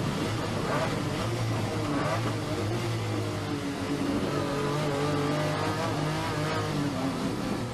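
Lamborghini Diablo V12 engine running under throttle, its note sliding slowly down in pitch through the middle.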